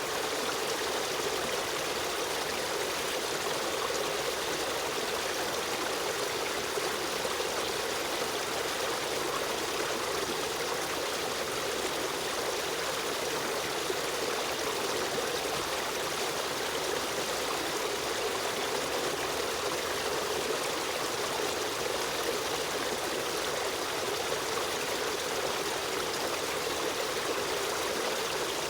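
Running water of a stream flowing steadily, an even rushing and trickling with no breaks.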